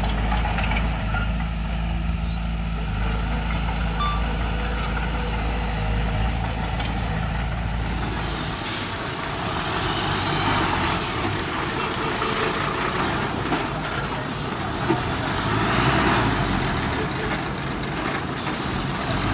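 Heavy diesel earthmoving equipment running steadily, with a change in the sound about eight seconds in, when the deep low rumble gives way to a brighter, noisier engine sound.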